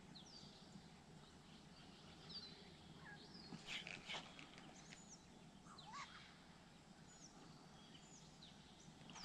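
Near silence with faint, scattered short bird chirps and calls.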